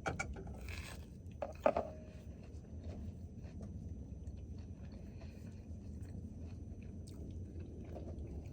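People chewing and biting into toasted grilled cheese sandwiches. There are a few sharp clicks in the first two seconds and small ticks after them, over a steady low rumble.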